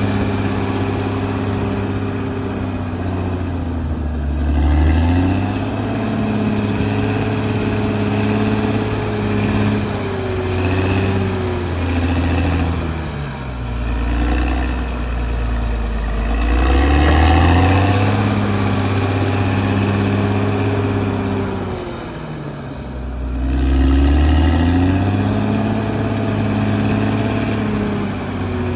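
Caterpillar D6R XL bulldozer's diesel engine running steadily, its pitch dipping and climbing back up three times.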